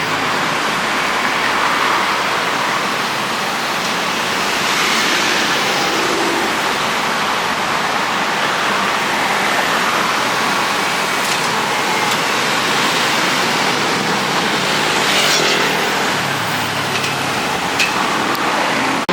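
Steady city street traffic noise: passing cars blending into a continuous hiss, with one brief sharp click near the end.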